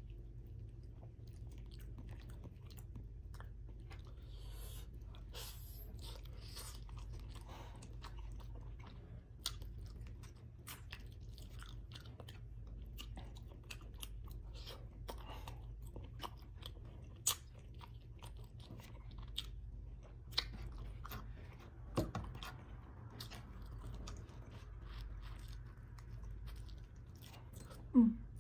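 Close-miked eating: chewing mouthfuls of vinegar-stewed salmon head and rice, with wet smacking and many small crackly clicks. A few sharper clicks fall in the second half, and a short, louder low mouth sound comes near the end.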